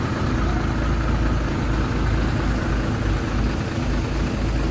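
Heavy diesel engine of a bulldozer or dump truck running steadily at a low, even speed.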